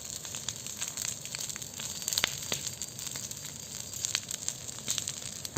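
Large bonfire of rubbish burning with a steady hiss and scattered sharp crackles and pops, the loudest pop about two seconds in.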